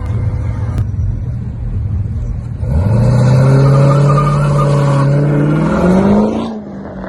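Car engine rumbling low, then about two and a half seconds in it revs up and holds a loud note that climbs slowly, rises higher near the end and then cuts off suddenly.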